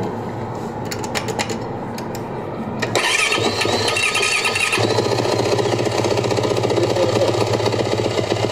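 Yamaha YZ450F dirt bike's four-stroke single-cylinder engine running. It gets louder about three seconds in and settles into a steady idle from about five seconds in.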